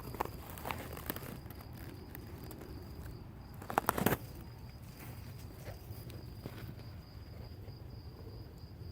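A steady, high-pitched insect trill on one unbroken tone, with a few soft rustles and a short louder burst of crackling rustle about four seconds in.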